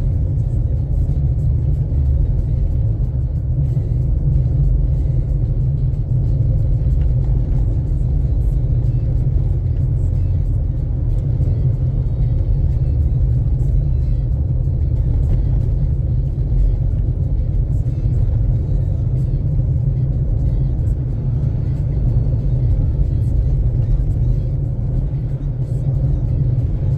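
Car driving, heard from inside the cabin: a steady low rumble of road and engine noise with no changes.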